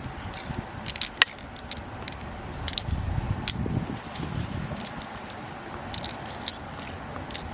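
Pearl mussel shells being handled, a series of irregular sharp clicks and light scrapes of hard shell against shell.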